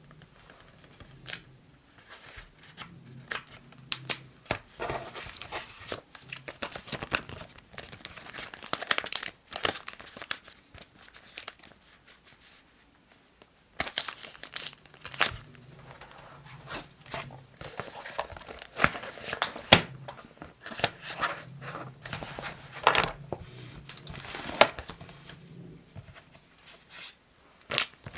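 Paper and sticker sheets being handled in diary decorating: crinkling, peeling and tearing rustles with many sharp little clicks, coming in bursts with a short lull about halfway through.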